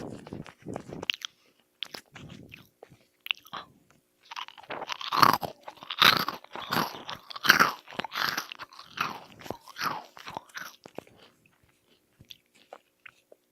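A person biting and chewing a crunchy food, a run of crisp crunches, densest from about four seconds in to near the end, with fewer, softer chews around it.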